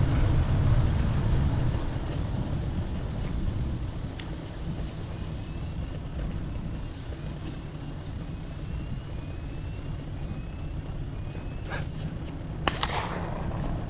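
Steady wind and road rumble while cycling, then two distant shotgun shots from a clay pigeon shoot about a second apart near the end, the second louder and echoing.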